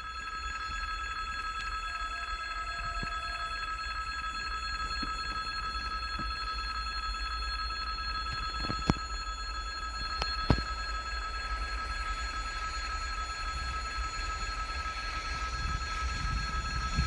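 Freight train hauled by a 2TE25KM diesel locomotive drawing near: a low rumble that grows near the end, under several steady high-pitched ringing tones. Two sharp clicks come about halfway through.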